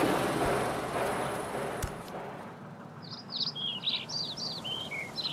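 Outdoor background noise with a few light clicks, then, about three seconds in, a small bird's rapid series of short chirps, each note falling in pitch, lasting about two seconds.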